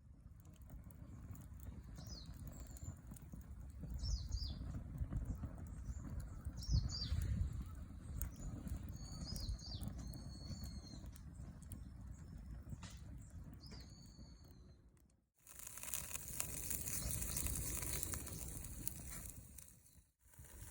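Wind rumbling on the microphone while small birds give short, high chirping calls. After a cut about three quarters of the way in, a steady sizzling hiss of sardines grilling over the campfire.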